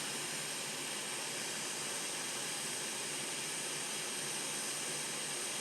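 Hot air rework station blowing with a steady, even hiss while desoldering a capacitor from a laptop motherboard.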